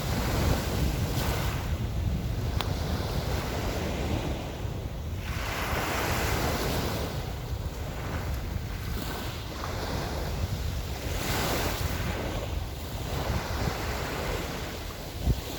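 Small Black Sea waves washing onto the shore, swelling twice, under a heavy rumble of wind buffeting the microphone. A brief thump comes near the end.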